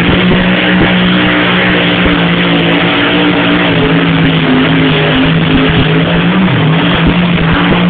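Naturally aspirated small-block V8 engine of a pulling tractor, running loud and flat out under load during a pull. Its note holds at a nearly steady pitch throughout.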